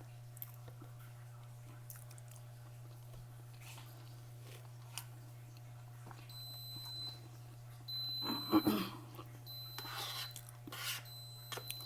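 Soft chewing and small eating noises. From about six seconds in, a kitchen appliance cooking rice sends out a high electronic beep about every second and a half, four times, each beep lasting under a second. There are a few louder rustles in between the beeps.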